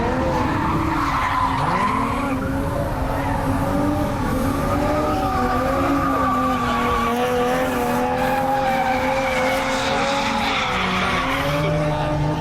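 Drift cars' engines held at high revs, their pitch wavering up and down as the cars slide, over a steady hiss of tyre noise. More than one engine is heard at once.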